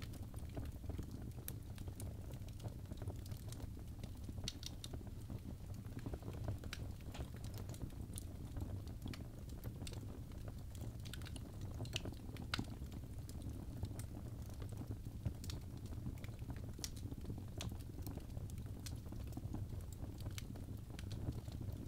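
Birch logs burning in a fireplace: a steady low rumble of flame with irregular sharp crackles and pops scattered throughout.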